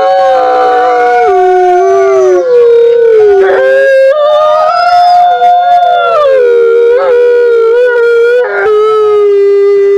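A pack of wolves howling in chorus: several long howls overlap at different pitches, each gliding slowly down and back up.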